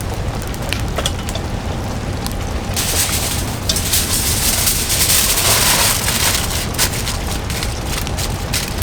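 Wood fire crackling in a camp fire pit, with sharp irregular pops and snaps and a louder hiss for about three seconds in the middle.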